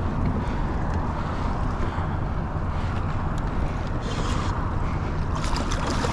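Wind buffeting the microphone over water sloshing around a kayak, with a couple of short splashy bursts about four and five and a half seconds in.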